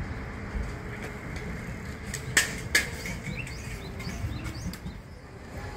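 Small birds chirping in short rising calls over a steady outdoor background rumble, with two sharp clicks a little before the middle.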